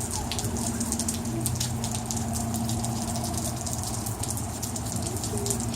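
Heavy rain pattering steadily, with the low, even hum of an idling vehicle engine underneath.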